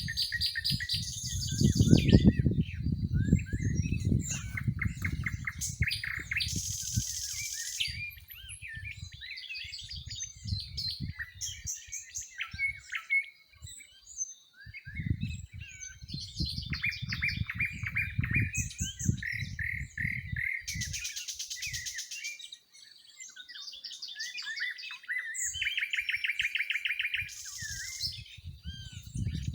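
Several songbirds singing and chirping at once, with rapid trills and buzzy phrases overlapping throughout. A low rumble comes and goes underneath.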